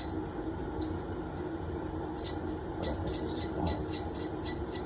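Light metallic clicks and clinks of small plumbing parts and tools being handled and fitted together, coming thick and fast over the second half, over a steady background hum.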